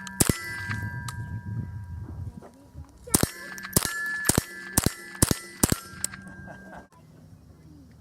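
.22 rifle, a Ruger 10/22, fired at a steel target: one shot, then after a pause about six shots roughly half a second apart. Each shot is followed by the ring of the steel plate being hit.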